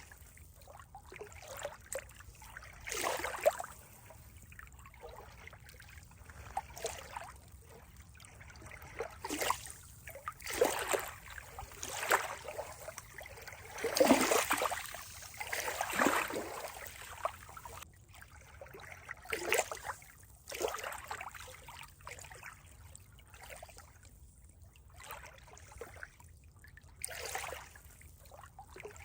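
Water trickling and splashing in uneven swells every second or two over a faint steady hiss, like a small stream, loudest about halfway through.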